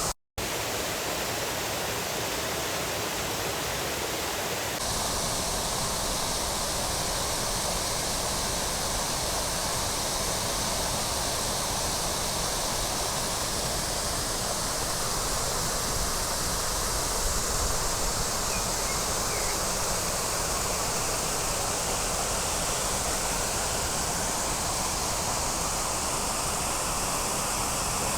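Waterfall pouring, a steady rush of water with no let-up, cut for a split second at the very start.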